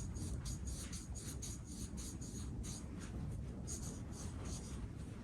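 Fine Scotch-Brite abrasive pad scrubbed back and forth by hand over the aluminium pad seat of a brake caliper, a quick, even scratching rhythm of about four to five strokes a second, cleaning off staining and light corrosion.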